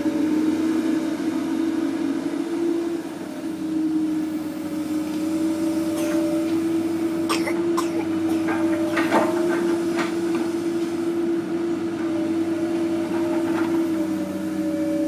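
Heavy demolition machine's engine running with a steady drone, with a cluster of sharp knocks and cracks in the middle.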